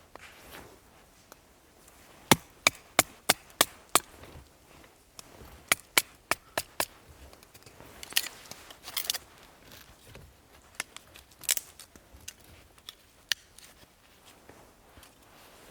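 Small firewood being chopped: a quick run of six sharp knocks about two seconds in, four more around six seconds, then scattered single knocks and short cracks.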